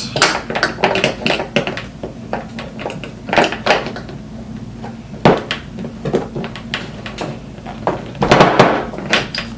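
Pliers clicking and clattering against a roller skate while working its toe stop loose: irregular metallic knocks and scrapes, the loudest about five seconds in and a cluster near the end.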